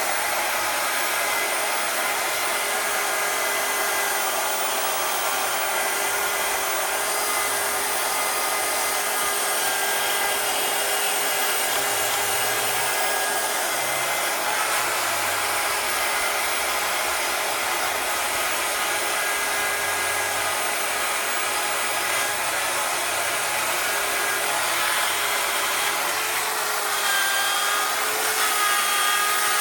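Electric drill running continuously with a wire brush spinning against the Porsche 911 SC engine case to polish it: a steady motor whine over a rough scratching hiss. The motor's pitch shifts a little near the end.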